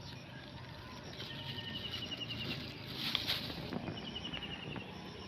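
Crinkling and rustling of old plastic being handled, loudest about three seconds in, over a high rapid trill that comes twice.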